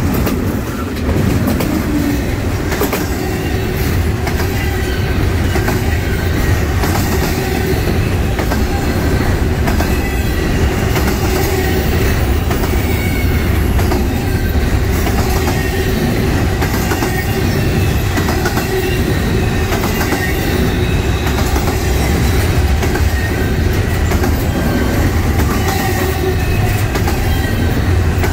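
Double-stack intermodal freight train's well cars rolling steadily past close by: a loud, continuous rumble of steel wheels on rail, with clicks as wheels cross rail joints and a faint wavering wheel squeal.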